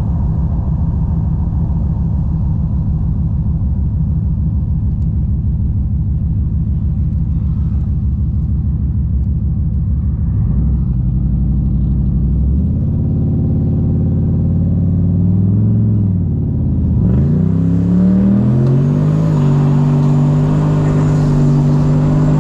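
Twin-turbo LS V8 in a Ford Falcon on the road, rumbling at low speed, then accelerating from about ten seconds in. The engine pitch climbs, drops briefly at a gear change, then climbs again with a rush of hiss and holds steady near the end.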